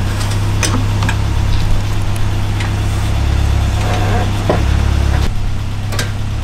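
Steady low machine hum, engine-like, with a few sharp metallic clicks from work with hand tools; the hum drops abruptly about five seconds in.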